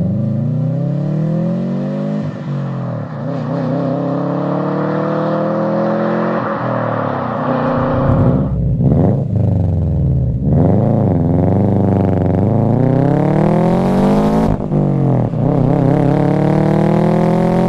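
2004 Subaru WRX's turbocharged flat-four engine breathing through an Invidia N1 racing catback exhaust under hard acceleration. The exhaust note climbs in pitch in repeated pulls and drops back sharply at each gear change.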